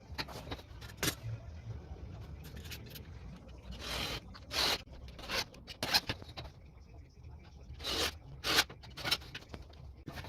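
Handling sounds from a leather tool bag: short scrapes and rubs, with scattered clicks and pairs of brief swishes about four and eight seconds in.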